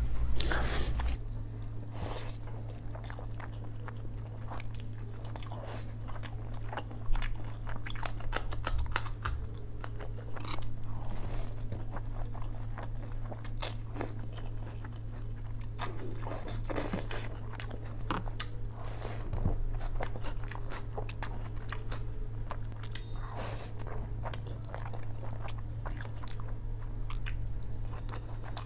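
A person eating a meal of dal chawal close to the microphone: chewing and biting with many short, sharp crunches at irregular intervals, over a steady low hum.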